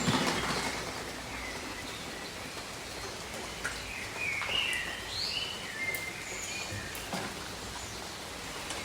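Steady tropical rain with scattered drips, and birds giving short high chirps, several of them between about four and six seconds in.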